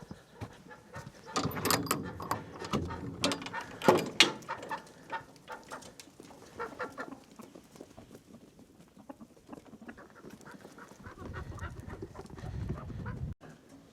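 Chickens calling, with a run of sharp knocks and clatter about two to four seconds in.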